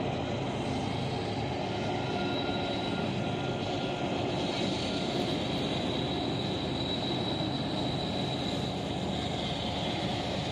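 Approaching train: a steady rumble from its locomotive, with a faint high whine held over it from about the middle on.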